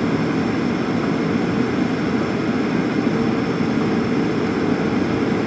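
Steady in-flight cabin noise of a Boeing 737: an even rush of engine and airflow noise with a steady hum just under 500 Hz.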